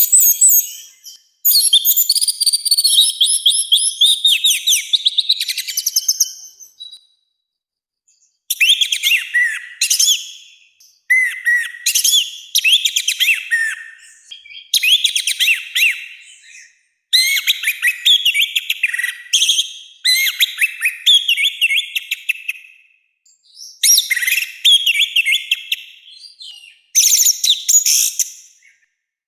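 Orange-headed thrush (anis merah) singing loudly and harshly, rapid varied whistled phrases in bursts of a few seconds separated by short pauses.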